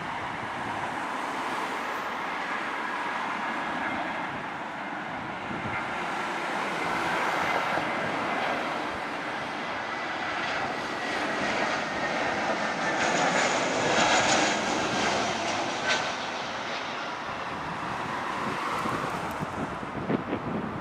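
Airbus A320 jet engines whining on approach to land, the rush building to its loudest about two-thirds of the way through as the airliner passes, with a faint whine that slowly falls in pitch.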